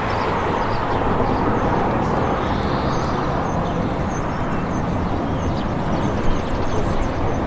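Town ambience: a steady wash of traffic and general street noise, with faint short high chirps scattered through it.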